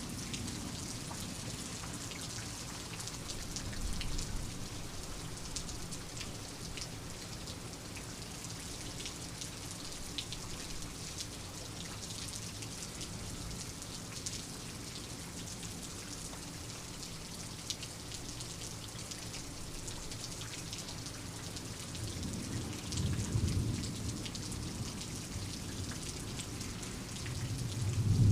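Steady rain falling, with scattered ticks of single drops. A low thunder rumble swells up about twenty-two seconds in, fades, and rises again near the end.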